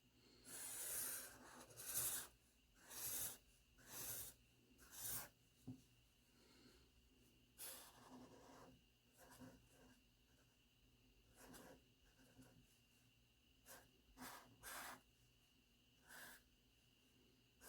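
Faint scratching strokes of an outlining pen drawn across paper, in short irregular strokes about once a second at first, then more sparsely.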